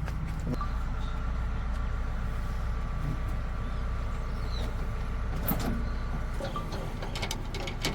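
Diesel engine of a tractor or backhoe loader running steadily with a low rumble that eases off about six and a half seconds in. A few sharp clicks and knocks are heard in the second half.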